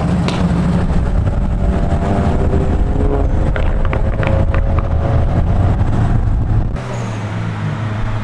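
Engines and exhausts of cars cruising slowly past, a loud steady rumble. About seven seconds in it drops to a steadier, slightly quieter engine drone.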